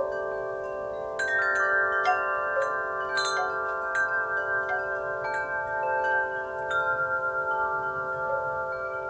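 Wind chimes ringing in the breeze, struck at irregular intervals so that many long tones overlap and hang on; a flurry of strikes comes about a second in, then they ring on more sparsely.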